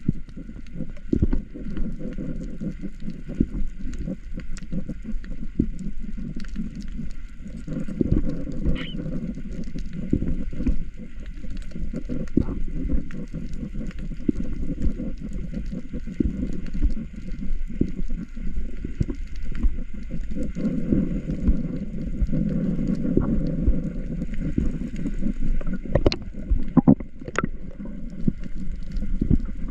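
Churning, gurgling water movement with many scattered sharp clicks throughout.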